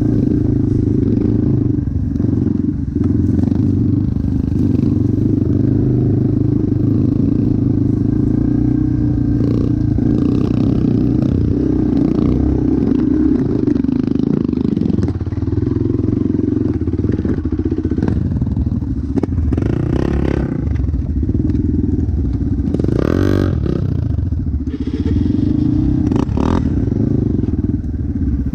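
Motocross dirt bike engine running for the whole stretch, its pitch shifting as the revs change, with a few short clattering bursts past the middle.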